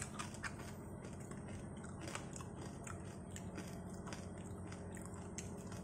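Someone chewing crispy roast pork belly (lechon liempo) skin: scattered small crunches at irregular intervals, the crackle of skin that has roasted crisp. A steady low hum runs underneath.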